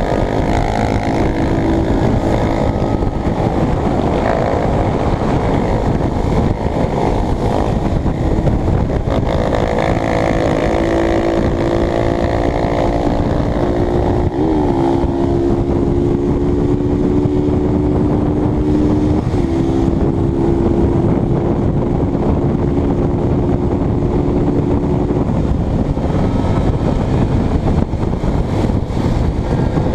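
Honda CBX 250 Twister's single-cylinder engine running at a steady cruise, under heavy wind rush on the microphone. The engine note holds steady and dips and recovers sharply twice in the middle, as the rider shifts gears.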